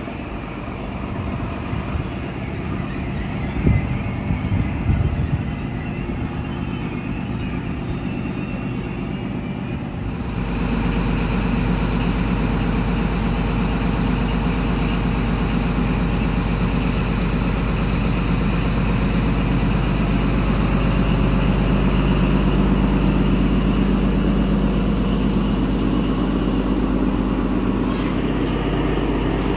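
Diesel XPT power car running at the platform. About ten seconds in, a steady low engine hum steps up and stays loud as the trailing power car draws alongside. A few knocks come about four seconds in.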